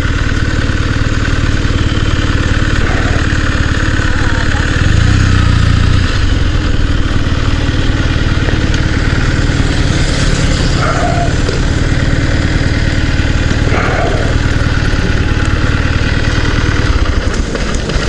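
Motorcycle engine running at low speed, steady, with a brief rise in engine sound about five seconds in.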